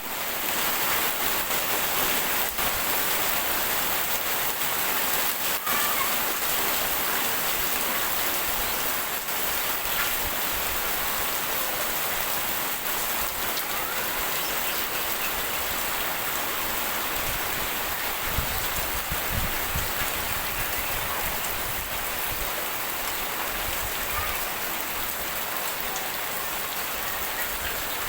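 Steady rain falling and pattering on surfaces, an even hiss of drops.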